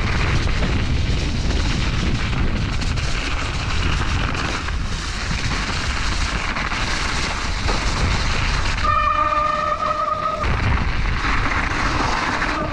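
Heavy wind buffeting an action camera's microphone, a loud continuous rumble. About nine seconds in, a steady high squeal holds for about a second and a half.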